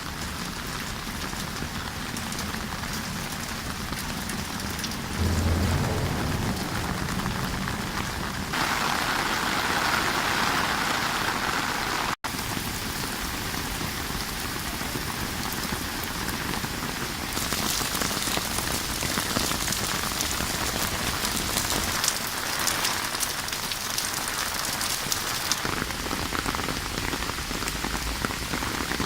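Rain falling steadily. The sound shifts in character a few times and drops out briefly about twelve seconds in. In the second half, individual drop hits stand out more.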